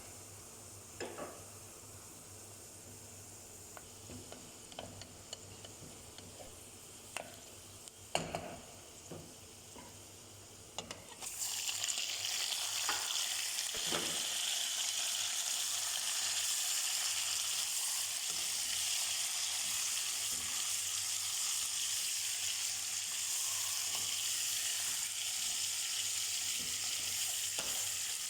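A few light knocks and clinks of utensils on a pan, then about eleven seconds in food goes into hot oil and sizzles loudly and steadily, with occasional knocks of a spatula stirring it.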